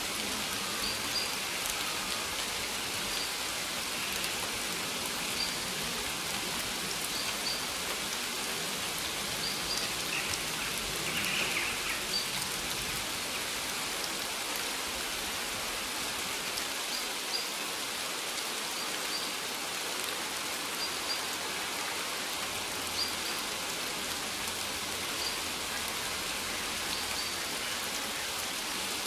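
Steady rain falling on maize plants, a continuous even patter of drops on the leaves.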